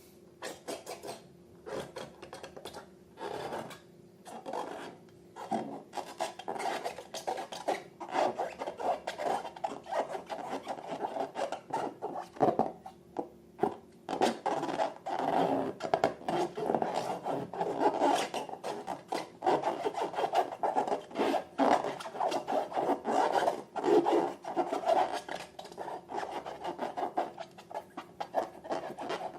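Slime being stirred and worked, giving a dense, irregular run of sticky clicking and rasping sounds. It starts about a second in and grows busier after a few seconds.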